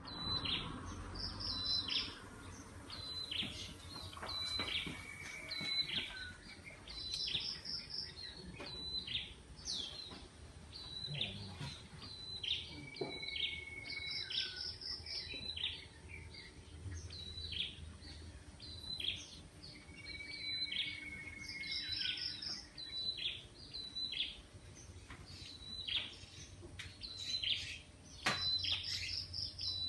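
Birds chirping at dawn. One bird repeats the same short phrase of quick high notes, sometimes with a lower drawn-out whistle, about every six seconds.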